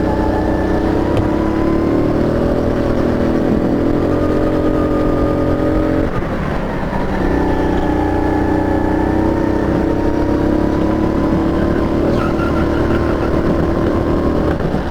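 Sodi rental go-kart engine heard on board under hard throttle, its pitch climbing slowly. About six seconds in it briefly lifts off and drops in pitch, then pulls again.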